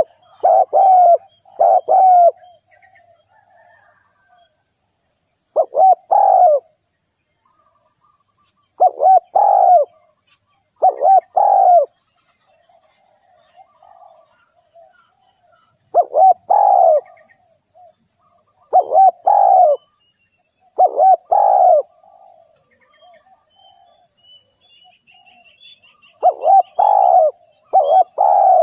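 Spotted dove cooing in repeated phrases of two to four coos, with pauses of a few seconds between phrases; this is the call used as a decoy to lure wild doves. Faint chirping of a smaller bird comes in near the end.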